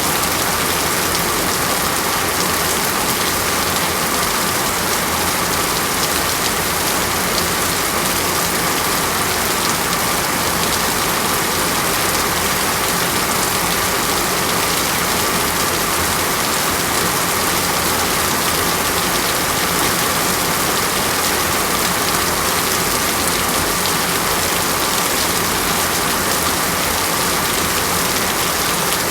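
Steady, even rain falling on a surface, with fine drop patter and no change throughout.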